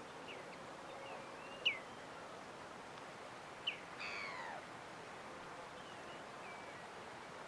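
Birds calling over a steady background hiss: a few short, sharp, falling chirps, the loudest just under two seconds in, and one longer call about four seconds in that slides downward.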